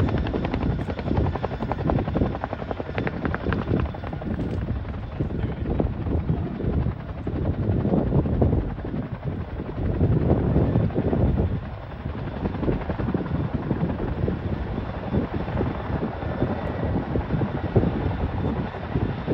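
Boeing CH-47 Chinook tandem-rotor helicopter flying, its two rotors making a fast, continuous chop. It swells louder about halfway through, then eases off.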